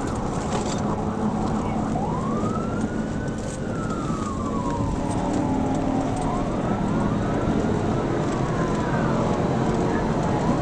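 Police siren wailing in slow rising and falling sweeps over steady engine and road noise from a patrol car in pursuit.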